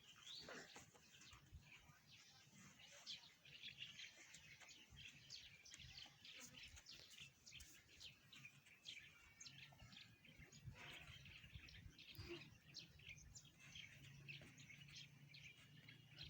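Faint chirping of small birds: many short, quick calls scattered throughout.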